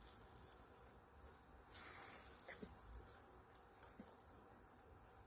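Mushroom stir fry sizzling in a pan over a campfire, a steady high hiss with a brief louder burst of noise about two seconds in.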